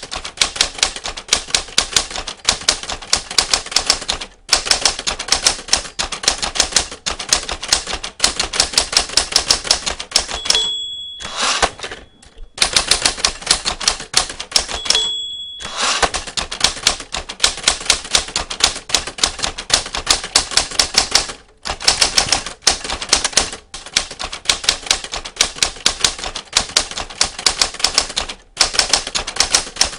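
Typewriter keys clacking in fast runs with short pauses. A bell dings twice, about a third of the way in and again near the middle, as on a typewriter reaching the end of a line.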